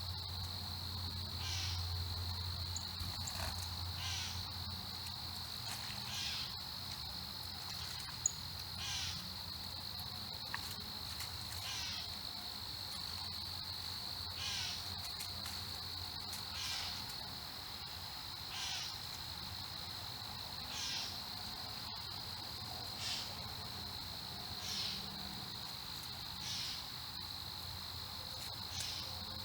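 Steady high-pitched trilling of insects, with a bird giving a short call about every two seconds.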